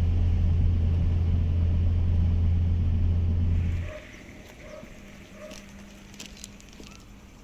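A loud, steady low hum that cuts off suddenly about four seconds in, leaving a quiet background with a few faint short sounds.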